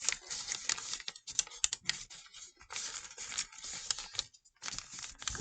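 A square of origami paper rustling and crinkling as it is tucked and creased by hand: a quick run of small crackles, with a brief pause about four seconds in.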